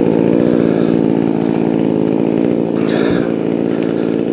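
Poulan Pro 4620 two-stroke chainsaw running steadily at a constant speed. The saw was freshly rebuilt with a new piston and is tuned rich for break-in.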